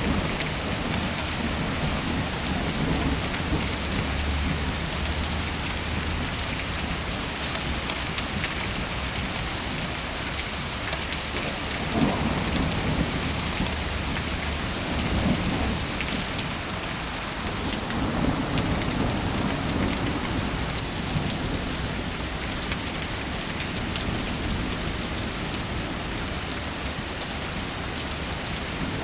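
Steady heavy rain falling on a surface, with low thunder rumbling several times in the middle.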